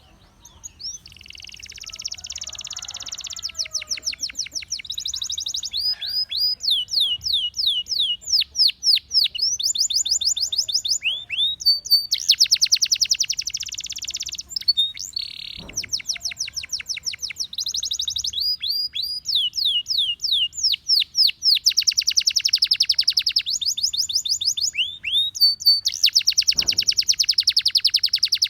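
Gloster canary singing a long continuous song, starting about a second in: rapid trills of repeated falling notes alternating with dense, buzzy rolls.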